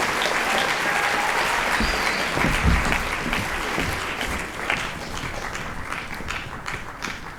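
Audience applauding, the clapping thinning and dying away over the last few seconds, with a low thump about three seconds in.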